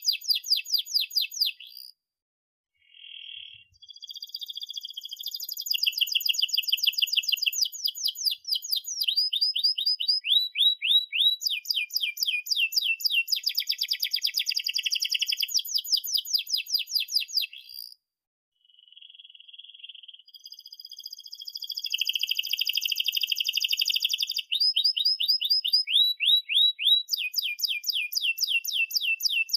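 Domestic canary singing a long song of fast trills and rolls: runs of quick repeated sweeping notes and chirps, changing from one trill to the next, with short pauses about two seconds in and again about eighteen seconds in.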